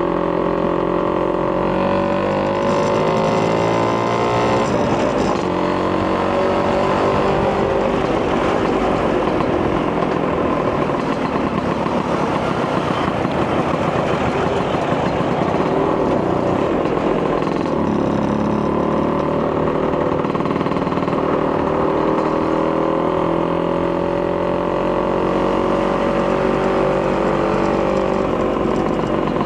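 Vespa PX200 two-stroke single-cylinder engine, bored to 210 cc with a Polini kit and breathing through a Malossi expansion-chamber exhaust, running under way. Its revs rise over the first few seconds, the engine note is masked by a rushing noise through the middle, and it runs at fairly steady revs near the end.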